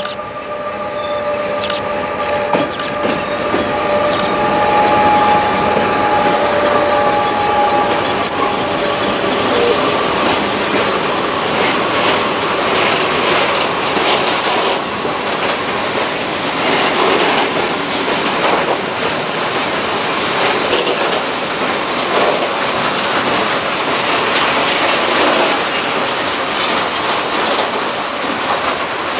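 Loaded freight hopper wagons rolling past close by behind a diesel locomotive, a steady rumble of wheels on rails with rapid clattering over the rail joints. For roughly the first ten seconds a high steady squeal of wheels on the curving track rides over it, then fades.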